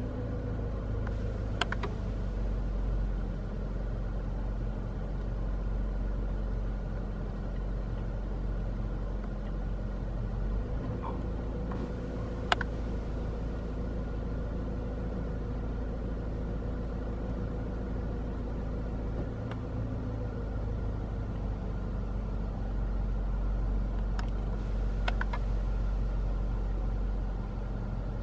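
Car engine running steadily, heard from inside the cabin as a low rumble with a faint even hum. A few sharp clicks break in, the sharpest about halfway through.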